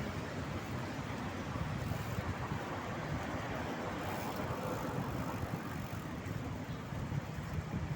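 Steady wind noise on the microphone with road traffic noise around, as heard from a moving bicycle.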